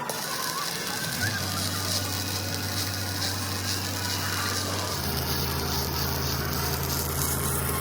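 Heavy machinery running with a clattering, rattling din. A low steady hum comes in about a second in and steps up in pitch about five seconds in.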